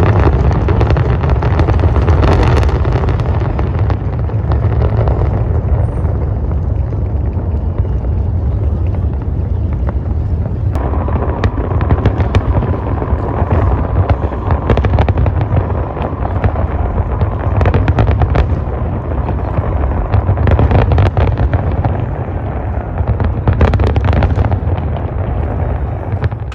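Fireworks going off: a constant low rumble of bursts, with many sharp bangs and crackles scattered throughout.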